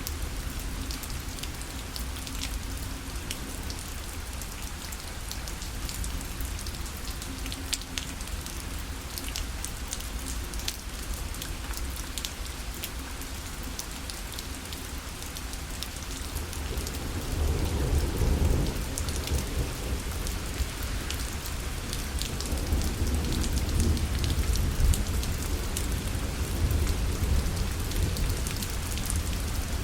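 Steady rain falling on a parasol, with many separate drops striking the fabric over an even hiss. About halfway through, a deeper rumble swells up and the rain grows louder.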